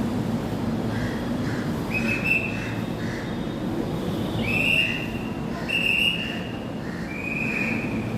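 Ahmedabad Metro train running with a steady rumble, its wheels squealing high four times, each squeal lasting under a second.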